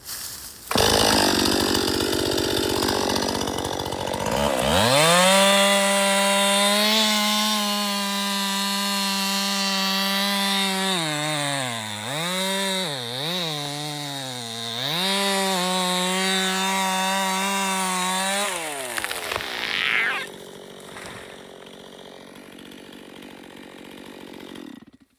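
Two-stroke chainsaw revving up to full throttle about four seconds in and cutting. Its pitch dips a few times as the chain bogs in the wood, then the engine falls off after about nineteen seconds.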